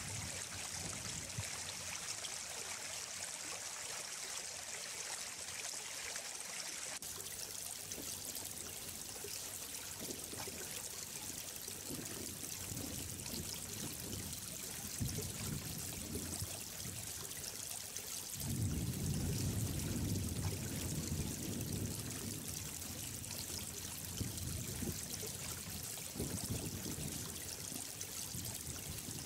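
Running water flowing and trickling steadily. The sound changes abruptly about seven seconds in, and a deeper, louder rush comes in past the middle for a few seconds.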